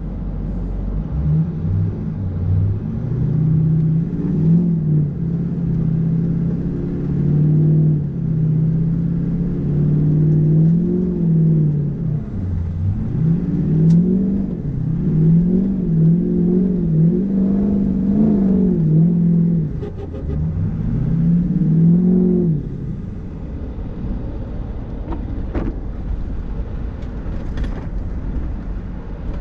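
Ford 6.0 Powerstroke V8 turbo-diesel engine pulling a pickup, revving up and easing off again and again, with turbo flutter as the throttle lifts. About 22 seconds in it settles to a lower, steadier run.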